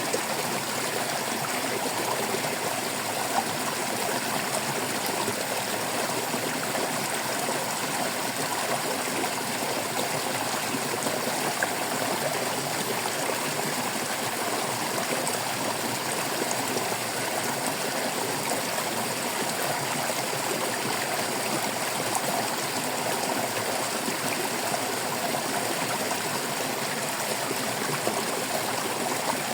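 Water flowing in a stream, babbling steadily without a break.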